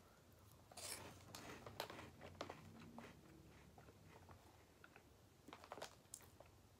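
Faint chewing of puffed cheese curls, with a few soft crunches scattered through it.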